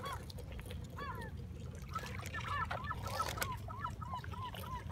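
Birds calling in a steady run of short, arched, honk-like notes, several a second and busier in the second half, over small waves lapping and trickling on a pebble shore.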